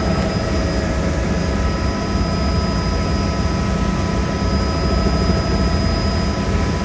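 Helicopter running steadily: a dense low rotor and engine drone with thin, steady whining tones over it.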